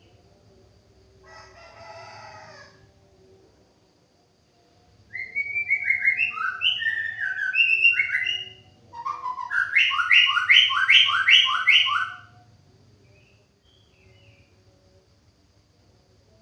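White-rumped shama singing: a loud run of varied whistled phrases, then a rapid series of repeated two-tone notes, about five a second, stopping about twelve seconds in. Near the start, a faint rooster-like crow of about a second and a half.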